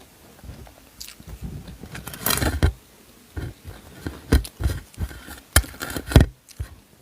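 Close-up chewing and crunching of crunchy toasted bread, in irregular bites with sharp crunches.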